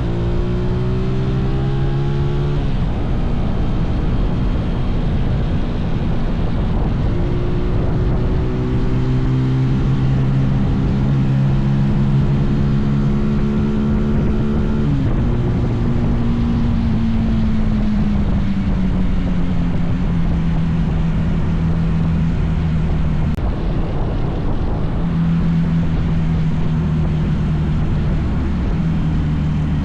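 Mini bike's small single-cylinder engine running under way, with wind buffeting the microphone. The engine note climbs, drops sharply about two and a half seconds in and again halfway through, then eases down slowly.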